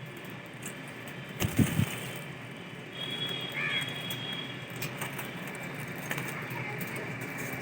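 Cockatiel calling: a brief loud harsh call about a second and a half in, then a short chirp and a thin held whistle near the middle.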